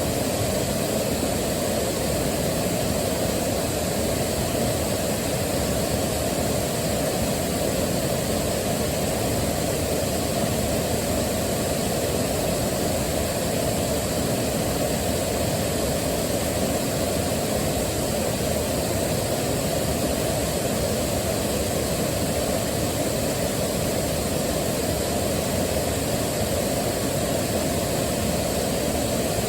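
Waterfall: falling water rushing steadily and deep, without a break or change.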